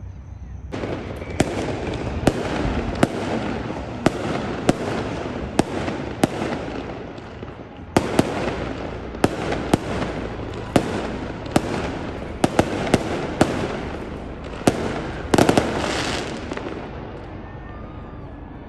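Fireworks display: sharp bangs of bursting shells, about one every second or less, over a continuous crackle, starting about a second in. Near the end a quick cluster of bangs comes, then the crackle fades away.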